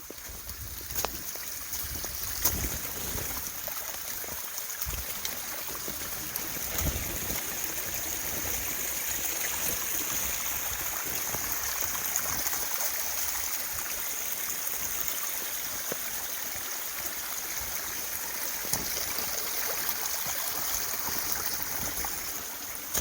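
Small forest stream running steadily, getting louder over the first couple of seconds, with a few faint clicks.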